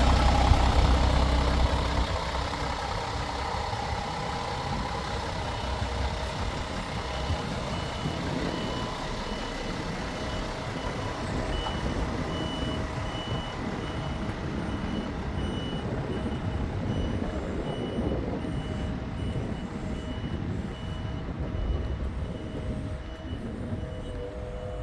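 Heavy truck running with a low, steady rumble, loudest for the first couple of seconds, while a reversing alarm beeps over it, short high beeps repeating evenly from about a quarter of the way in.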